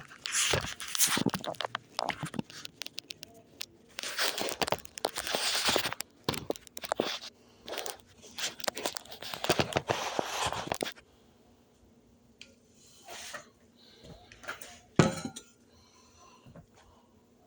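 Irregular rustling, crinkling and crackling noises in bursts for about eleven seconds, then quieter scattered clicks and one sharp knock about fifteen seconds in.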